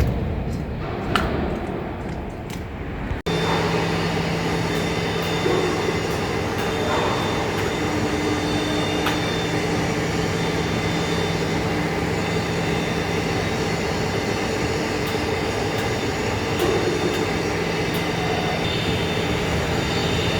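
Heavy-duty lathe turning a large steel part: a steady machine drone with a few light clicks, which breaks off and changes suddenly about three seconds in.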